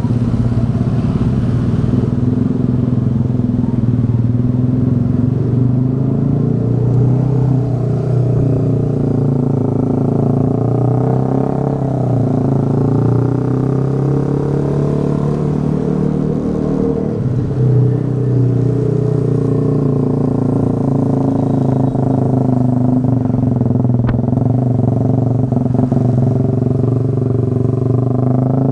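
Motorbike engine running under way, heard from the bike itself, its pitch rising and falling gently as the speed changes.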